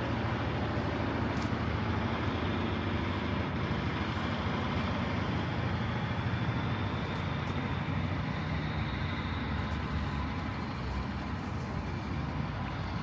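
Steady road traffic, with vehicles passing and a low engine rumble throughout.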